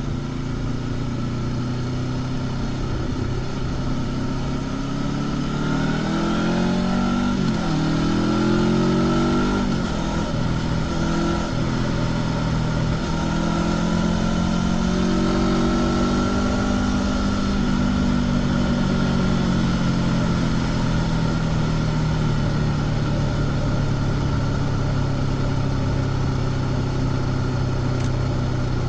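Honda CB500X parallel-twin engine with stock exhaust, heard from the rider's seat while riding. The revs climb and drop several times through the first half, then settle into a steady cruise.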